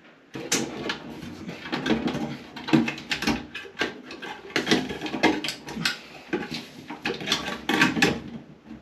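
Hands working wiring into a bathroom exhaust fan: irregular clicks, scrapes and rustles of wires and plastic parts being pushed and fitted into place.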